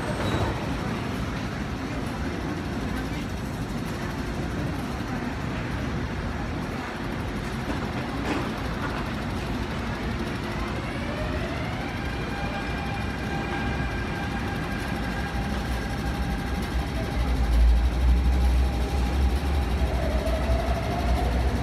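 MTR Tung Chung line A-train at an underground platform, running with a steady rumble. About ten seconds in its traction motors start a whine that rises in several pitched steps. A heavier low rumble builds near the end, and another rising whine follows as the train moves off.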